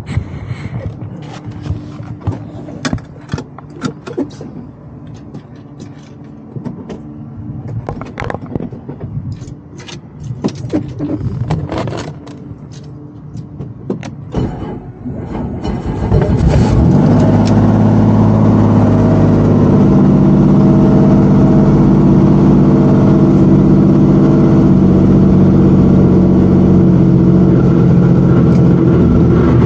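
Scattered clicks and knocks of handling in the cabin, then about halfway through the helicopter's engine starts: a sudden loud, steady low drone that rises briefly and then holds steady.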